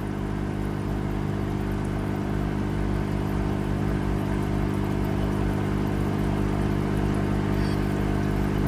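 A steady mechanical drone, like a motor running at constant speed, holding one pitch with a hiss above it.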